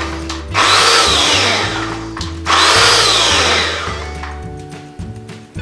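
Electric blender run in short pulses, twice: each burst starts abruptly and its motor whine falls in pitch as it spins down. Background music with a steady bass line runs underneath.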